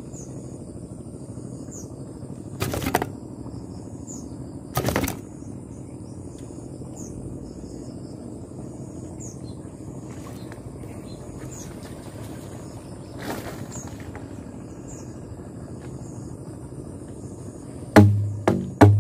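Insects chirping outdoors: a steady high drone with short chirps repeating about every second. A few short knocks come through, and near the end there are several loud, deep thumps.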